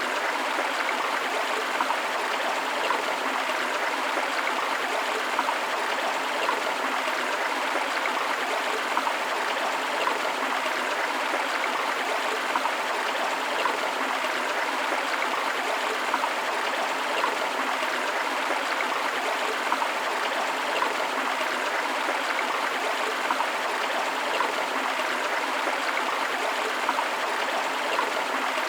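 Forest river water flowing: a steady rushing with small, constant flickers and no deep rumble.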